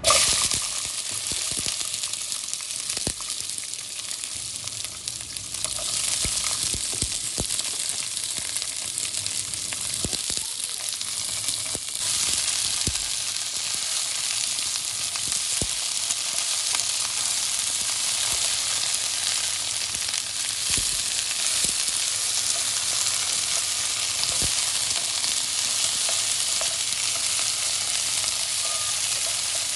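Food sizzling in a hot pan, a steady hiss that grows louder about six seconds in and again about twelve seconds in, with occasional short knocks of a utensil stirring.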